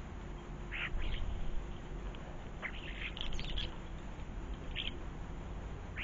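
Ground-feeding garden birds giving short calls: two about a second in, a quick run of several around the middle, and one more near the end, over a low steady background rumble.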